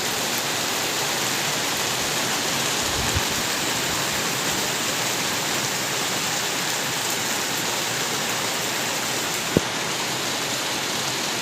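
Steady heavy rain, an even hiss of falling water, with a few faint drip knocks, the sharpest near the end.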